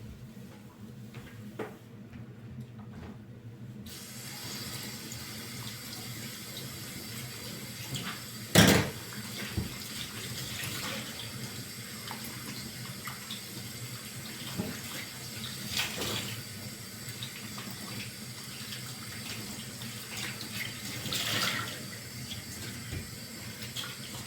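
Tap turned on about four seconds in, water running steadily into a sink. A loud knock about eight seconds in and a few lighter knocks later, as things are handled in the sink.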